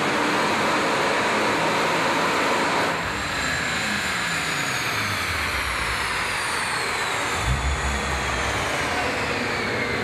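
Porsche 997.2 Turbo's 3.8-litre twin-turbo flat-six on its stock exhaust, heard from the open-top car while driving. The revs fall away about three seconds in, and a high whine glides steadily down as the car slows. There is a low thump near the end.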